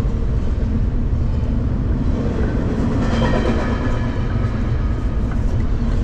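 A train running past, a steady low rumble of wheels on the rails.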